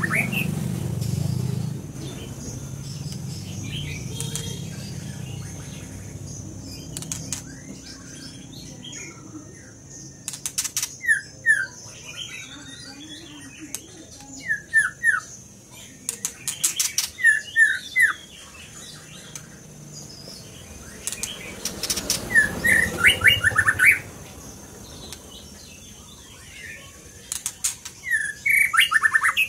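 A songbird calling and singing in repeated short bursts of quick, sharp whistled notes, separated by pauses of a few seconds. Brief clicking or fluttering sounds come alongside the bursts, and a low rumble fades out in the first couple of seconds.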